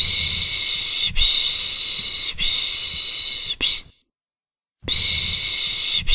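A person shushing a baby to sleep with long, hissing 'shhh' sounds: three shushes run almost together, then a pause of about a second, then the shushing starts again.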